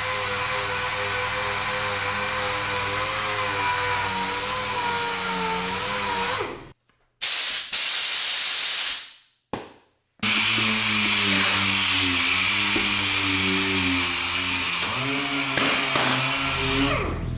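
Dual-action (random-orbital) sander running with 400-grit paper on a soft interface pad, a steady whine over hiss whose pitch wavers as it is worked over a body panel. It cuts out twice between about seven and ten seconds in, then runs on.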